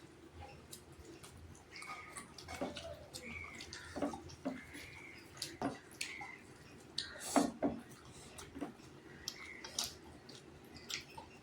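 Wet eating sounds: chewing and lip-smacking, with scattered small clicks and brief squeaky mouth noises.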